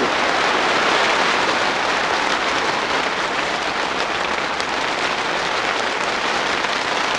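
Heavy precipitation beating steadily on the plastic cover of a polytunnel: a dense, even hiss with faint scattered ticks.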